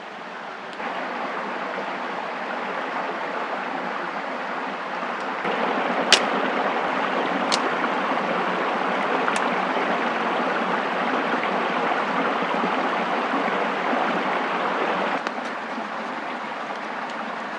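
A steady rushing noise, with a few sharp clicks in the middle. It steps louder about a second in and again a few seconds later, then drops back near the end.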